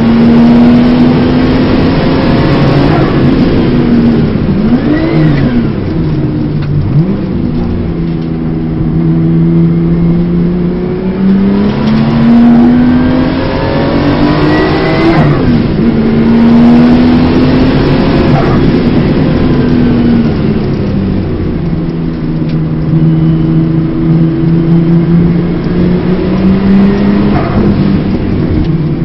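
Porsche 930 Turbo's air-cooled turbocharged flat-six heard from inside the cabin on a fast lap. The revs climb hard and fall away again several times as the driver accelerates, brakes and changes gear.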